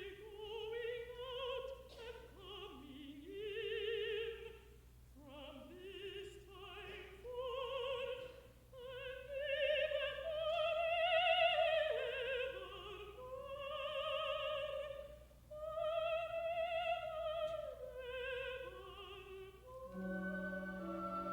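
Contralto singing a slow, sustained solo line with wide vibrato, very lightly accompanied; near the end the orchestra comes in under her with a held chord. A faint low hum from the old broadcast recording runs underneath.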